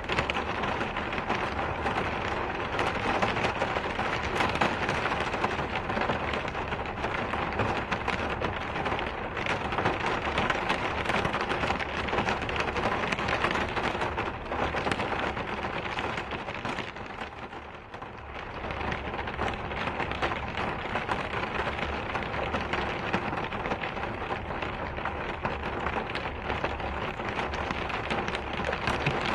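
Steady, heavy rain falling on a surface, a dense hiss full of fine drop ticks. It eases briefly about two-thirds of the way through, then swells back to full strength.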